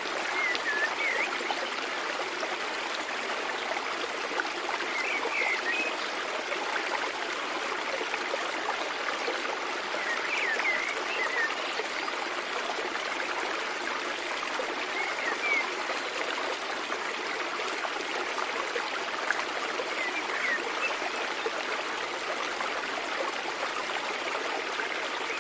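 Mountain stream running steadily, a continuous rush and trickle of water, with short high chirps repeating about every five seconds.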